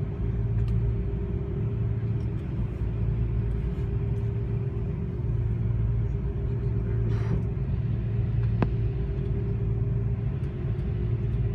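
Steady rumble and hum inside an Airbus A330-200 passenger cabin on the ground, with a constant mid-pitched tone over it. A single short click sounds about eight and a half seconds in.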